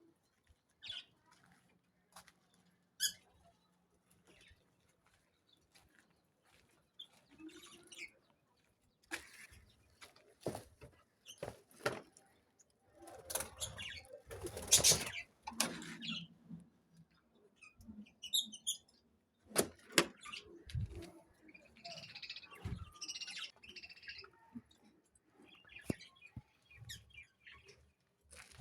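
Caged budgerigars and parrots fluttering their wings and chirping now and then, among scattered clicks and knocks. The loudest flurry of flapping comes about halfway through.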